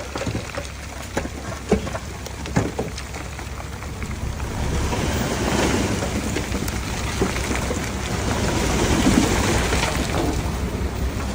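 Diesel earthmoving machinery working soil: a steady low engine rumble with a few sharp metal clanks in the first seconds, then a louder, noisier stretch from about five seconds in.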